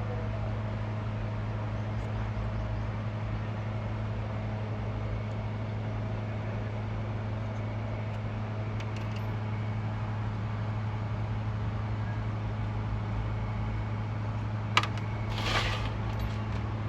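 A steady, low mechanical hum holds at an unchanging pitch throughout. Near the end there is one sharp click, followed by a brief rustling scrape.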